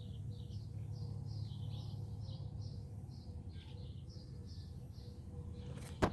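A bird chirping over and over, about three short high chirps a second, over a low steady rumble. A sharp knock comes near the end.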